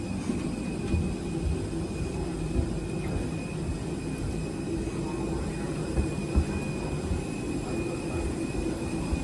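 Steady low mechanical rumble with a faint, steady high-pitched whine above it and a few soft knocks, the kind of engine or ventilation noise heard around an airport or aboard an aircraft.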